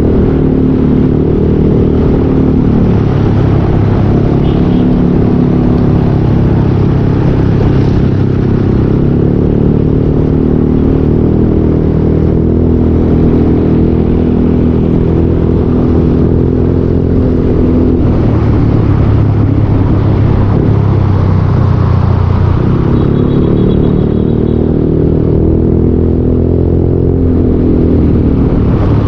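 Yamaha Aerox 155 scooter's single-cylinder engine running through a full Yoshimura exhaust while riding, the revs rising and falling a little.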